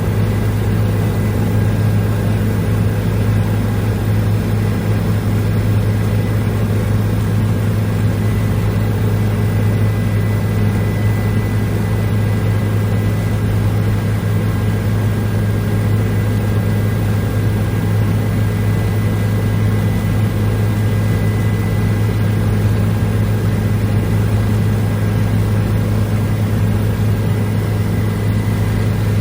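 Helicopter running in steady flight: a loud, unchanging low drone with a thin, steady high whine above it.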